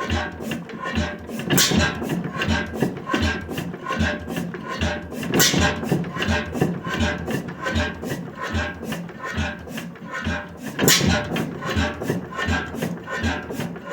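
1898 Crossley hot-tube-ignition gas engine running with an even mechanical beat of about two to three clicks and thuds a second. Three much louder bangs stand out among them.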